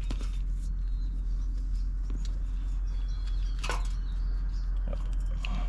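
Steady low hum in the background, with a few light clicks and taps of small parts being handled near the end.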